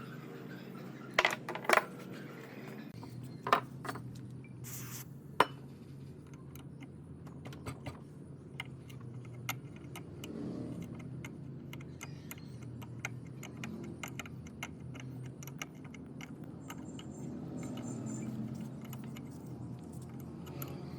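Metal parts and hand tools clinking and knocking as they are handled. There are several sharp clinks in the first six seconds, then lighter ticking over a steady low hum.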